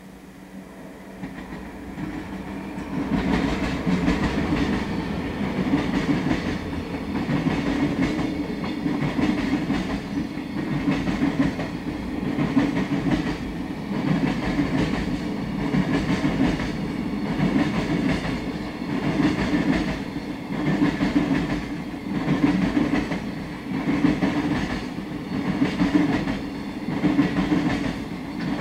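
Trains passing close by: the noise builds over the first three seconds as a train approaches. Then comes a steady rumble of wheels on rail, with the wagons of a container freight train clattering over the rail joints about once every two seconds.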